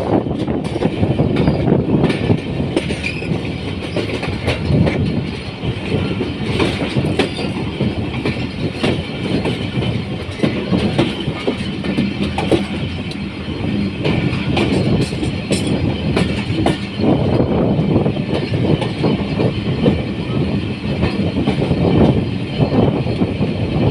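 Passenger express train coaches rolling at low speed as the train pulls out, steel wheels clattering over rail joints with a steady rumble throughout.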